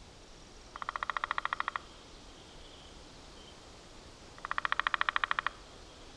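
An animal's trilling call: bursts of about a second of rapid, evenly spaced pulses, repeated every three to four seconds, over a low outdoor hiss.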